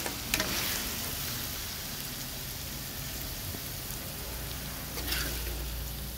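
Frog pieces with turmeric shoots frying in a steel wok with a steady sizzling hiss. A metal spatula clicks and scrapes against the wok near the start and again about five seconds in as the food is scooped.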